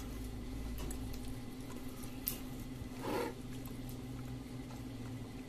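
A person quietly chewing a mouthful of fried eggs, with a few small clicks and a brief louder sound about three seconds in, over a steady low hum.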